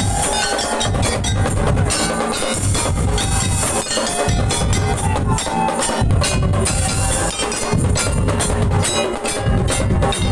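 Madurese daul music: a percussion ensemble of drums with a deep bass drum, wooden knocking percussion and ringing metal pitched percussion, playing continuously to a driving beat.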